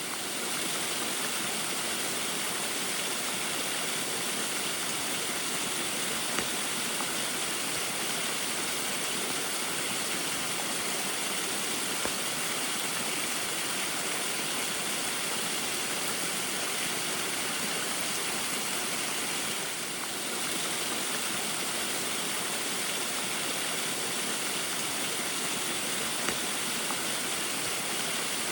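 Small waterfall in the rain: a steady, even rush of falling water, with a few faint ticks of drops.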